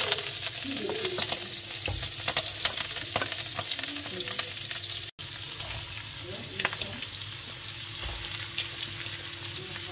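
Chopped vegetables sizzling and crackling in hot olive oil in a wok. The sound drops out for an instant about halfway through.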